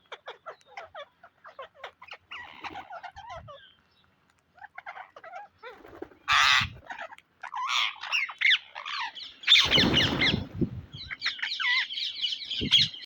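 Pet Psittacula parakeets chirping and squawking: a scatter of short, soft chirps at first, then louder harsh squawks, a brief noisy burst around ten seconds in, and a fast run of chattering notes near the end.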